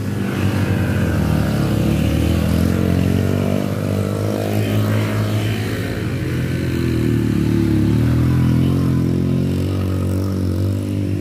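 Motorcycle engine running steadily under heavy throttle while climbing a steep mountain road, its pitch rising a little past the middle.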